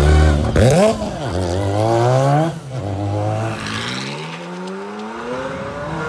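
Performance car engines revving and accelerating away: a sharp rev blip about half a second in, then a rising pull that breaks off near the middle. A Ferrari 458 Speciale Aperta's V8 then accelerates away, its pitch climbing steadily as it recedes. The first engine is the Mazda RX-7 race car's.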